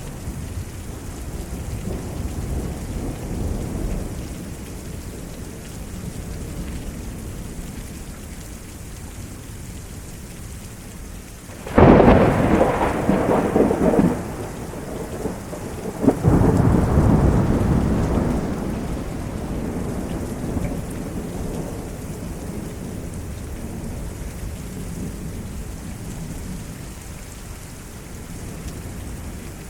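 Steady heavy rain with low rolling thunder. About twelve seconds in, a close lightning strike gives a sudden, sharp, loud thunderclap, followed about four seconds later by a second loud crash that rumbles away over a few seconds.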